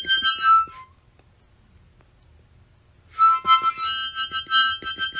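Harmonica-like music with high reedy notes: a short run of notes, a pause of about two seconds, then a longer run of repeated notes.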